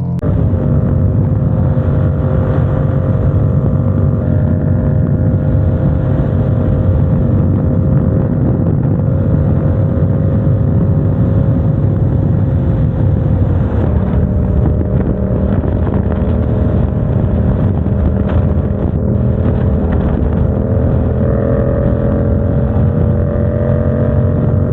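Motorcycle engine running at steady revs while riding, with a dense low rumble of wind and road noise; the engine pitch rises slightly near the end.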